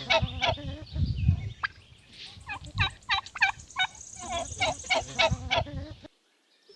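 Turkey gobbling in quick repeated rattling calls, which cut off abruptly near the end.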